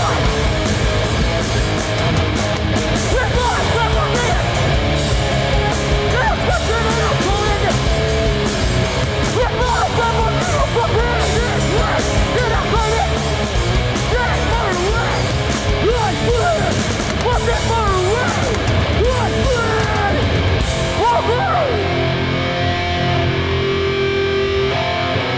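Hardcore punk band playing live: distorted electric guitars, bass and drums with vocals over them. About 21 seconds in the drums and cymbals drop out, leaving held guitar chords ringing.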